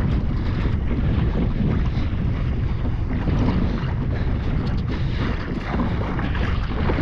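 Steady wind buffeting the microphone on open sea, with water sloshing and splashing around a kayak.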